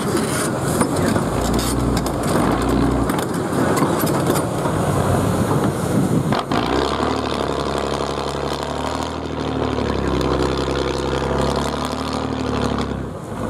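Truck engine running under load, its pitch rising and falling as it revs, with a single sharp knock about halfway through.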